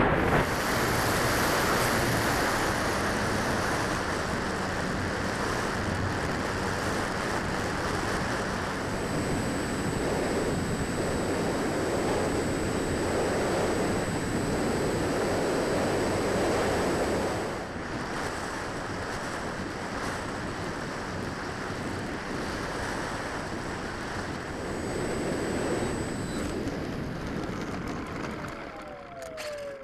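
Gusty wind of about 15 knots buffeting the microphone in a steady rush, easing a little about two-thirds of the way through, with a thin, steady high whine through the middle.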